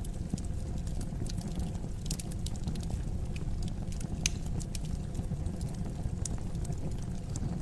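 Fire crackling in a fireplace: scattered sharp pops and snaps over a steady low rumble, with one louder pop about four seconds in.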